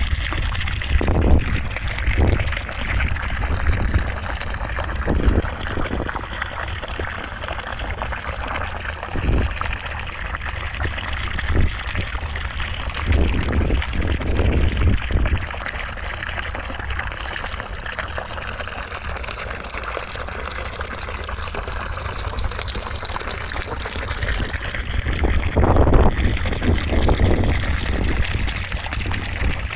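Steady rushing white noise, a full, even hiss whose tone drifts slowly up and down, with occasional soft low thumps underneath.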